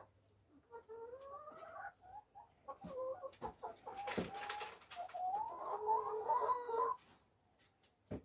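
Backyard hens clucking and calling, in short pitched calls, with a couple of sharp knocks about halfway through.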